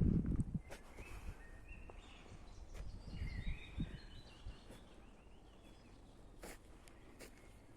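Small songbirds chirping in short repeated phrases in a forest, with scattered sharp clicks and a brief low rustle at the start.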